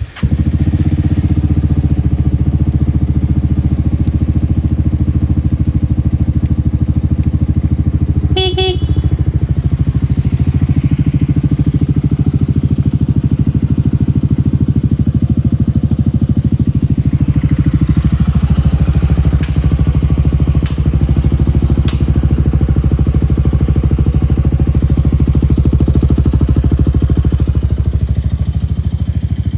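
Yamaha Grand Majesty 250 scooter's single-cylinder four-stroke engine idling steadily just after starting. A short horn beep sounds about eight seconds in, and a few sharp clicks come about two-thirds of the way through.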